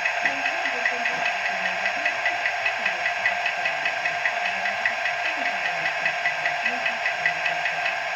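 Model train sound for an ALe 840 electric railcar: a steady mechanical hum with a regular ticking, about three ticks a second.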